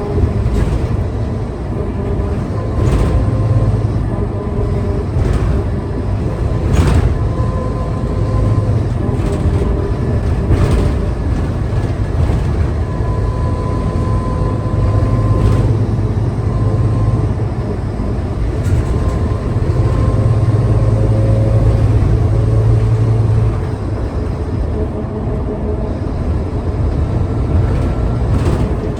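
Scania K320UA city bus's diesel engine running under way: a steady, loud low rumble with a thin whine that comes and goes and shifts in pitch, and occasional knocks and rattles.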